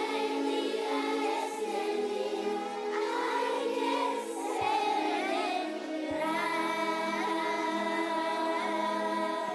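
A school choir singing together with sustained, harmonised notes over a steady low accompaniment.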